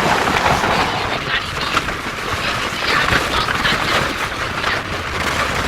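A long string of firecrackers going off in rapid, dense crackling that cuts off suddenly near the end.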